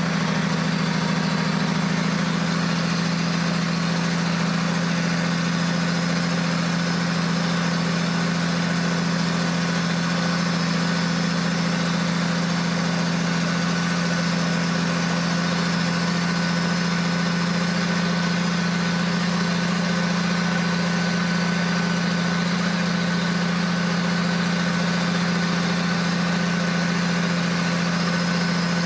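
Heavy diesel engine running steadily at one speed, with no revving or changes.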